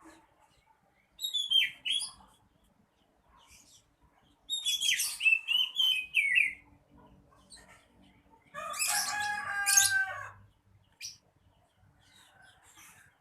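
Oriental magpie-robin (kacer) singing in separate bursts of whistled, sliding phrases with short pauses between. A brief phrase comes about a second in, a longer one near the middle, and a lower, richer phrase a few seconds later.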